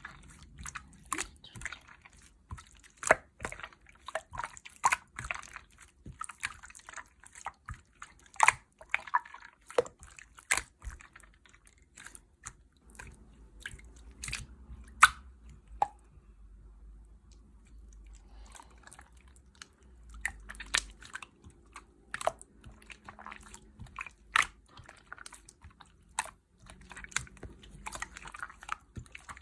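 Clear slime with mermaid-pearl beads mixed in, worked and squished by hand: irregular sticky clicks and pops, with a quieter pause about halfway through.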